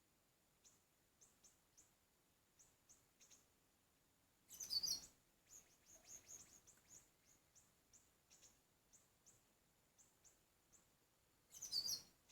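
Faint, high, short bird chirps repeated through the clip, with two louder chattering bursts about seven seconds apart: siri-siri bird calls, as used to lure the birds.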